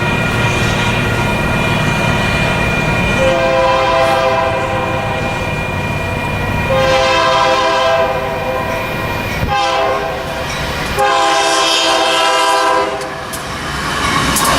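Freight locomotive's multi-chime air horn sounding the grade-crossing signal, long, long, short, long, over the rumble of the passing train.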